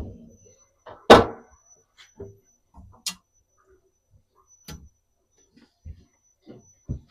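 Scattered knocks and clicks of kitchen items being handled during a cleanout, the loudest a clunk about a second in, with sharper clicks around three and five seconds in.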